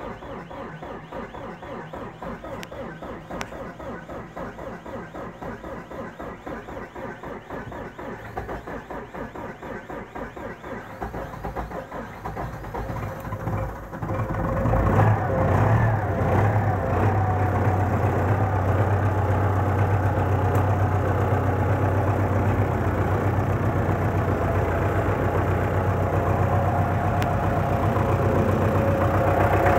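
D-243 four-cylinder tractor diesel being cranked over by the starter for about fourteen seconds, with a steady rhythmic pulsing, then catching and settling into a steady idle. This is the first start after the fuel injection pump was repaired and the fuel system bled.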